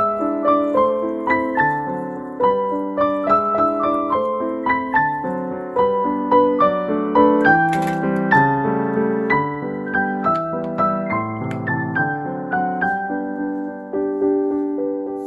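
Background piano music: a steady run of single notes and chords, each note struck and fading, with a short click about eight seconds in.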